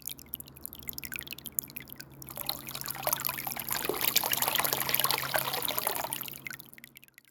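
Water trickling and splashing over stone in a small pump-fed tabletop waterfall, growing fuller after about two seconds and fading near the end, with a steady low hum underneath.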